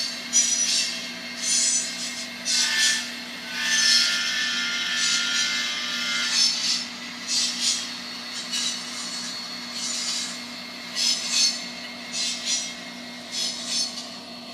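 Diesel locomotive sounds from the small speaker of a LokSound micro DCC sound decoder in an N scale GP60M model: a steady engine hum with repeated hissing, rasping bursts, and a higher tone joining in for a few seconds near the start.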